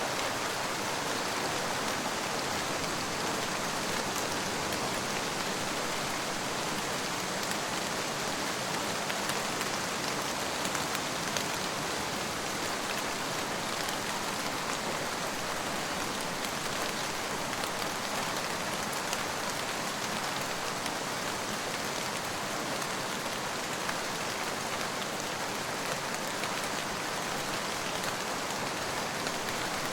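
Steady rain falling, an even hiss with fine scattered drop ticks; no thunder is heard.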